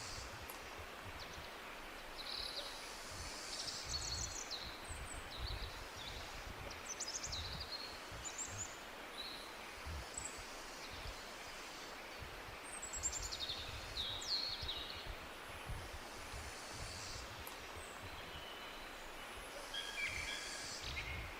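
Forest ambience: several small songbirds give short high chirps, trills and a few quick falling calls on and off. Behind them are a steady hiss and an uneven low rumble.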